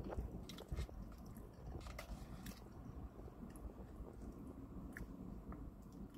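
Faint, mouth-close chewing of a forkful of chili cheese fries, with a few light clicks and taps scattered through it, from the fork and the plastic food tray.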